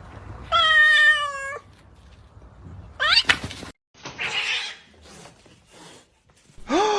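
Domestic cat meowing: a long drawn-out meow about half a second in, a short rising call about three seconds in, and another meow near the end.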